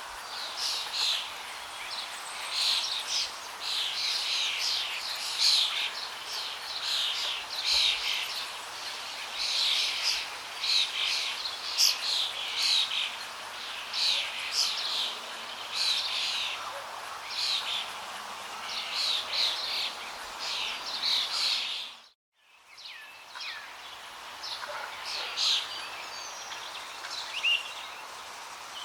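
Many birds chirping and singing over a steady rush of flowing water. About 22 seconds in, everything cuts out for a split second and returns, with fewer birds calling afterwards.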